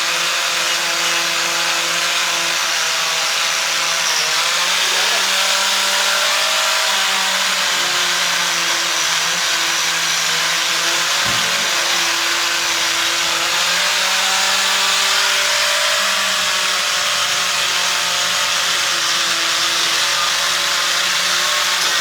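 Electric power tool running continuously while cutting or shaping wood, its motor pitch sagging and recovering as it bears into the work. A single knock about eleven seconds in.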